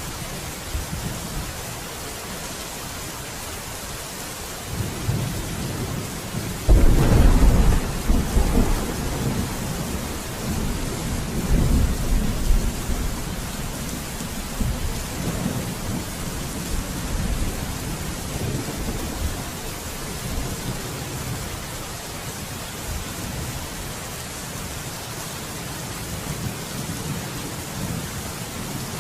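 Steady rain with a thunderclap: a low rumble builds, then a sharp loud crack about seven seconds in, rolling on for several seconds before fading back under the rain.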